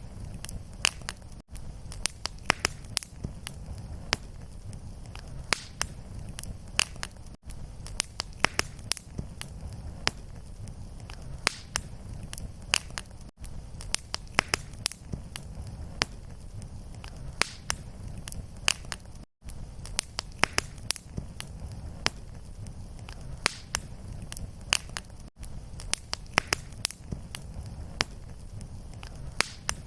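Looped fireplace fire crackling: many sharp irregular pops over a low steady rumble, with a brief dropout about every six seconds where the loop restarts.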